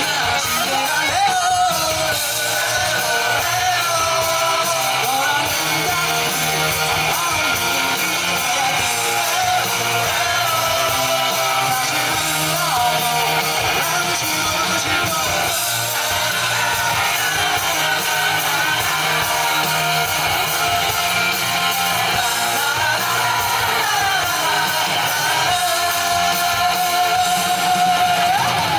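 Rock band playing live, guitars prominent, at a steady loud level, with a wavering melody line that may be a lead guitar or a voice.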